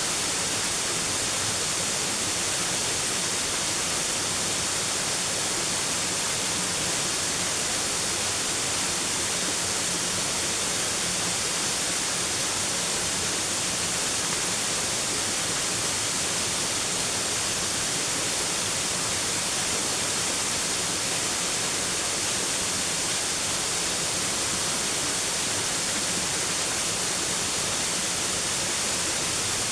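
Steady rush of falling water from a waterfall, a constant hiss that does not change.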